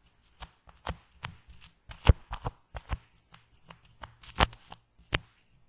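Shaving foam being squished and worked by hand right at a microphone, giving an irregular run of sticky crackles and pops, with a few louder pops spread through.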